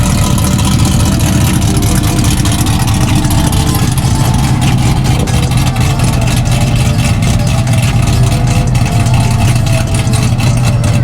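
Car engine idling through its performance exhaust, a loud, steady low note that holds without revving up or down.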